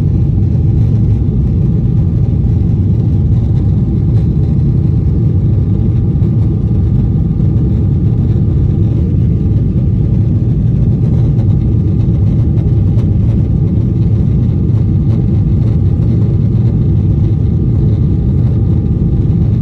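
Jet airliner's engines heard from inside the passenger cabin: a loud, steady low rumble with a faint constant whine above it.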